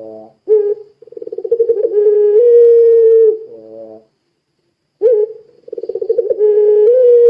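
Puter pelung turtle dove calling: two long, drawn-out cooing calls, each starting with a rapid throbbing trill that settles into a steady held note, with short coos between them.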